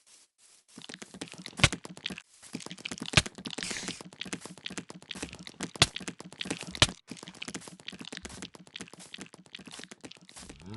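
Dense crackling and crinkling that starts about a second in, with four much louder sharp clicks standing out.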